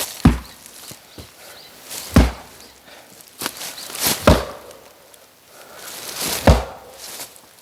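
Oak firewood being split by hand: four heavy chopping strikes into wood, about two seconds apart.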